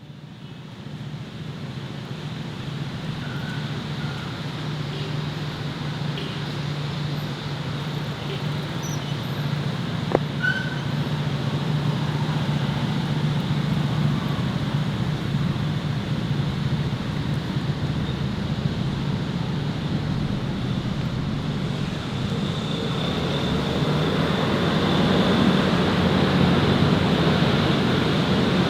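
City street ambience: a steady hum of road traffic that fades in at the start and grows gradually louder, with one sharp click about ten seconds in.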